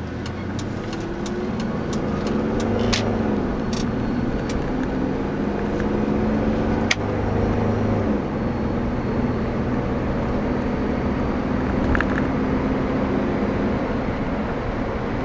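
2002 Jeep Liberty Limited's 3.7-litre V6 pulling under acceleration, heard from inside the cabin over tyre and road noise. The engine note climbs, drops about three seconds in and again near eight seconds as the gears change up, then holds steadier.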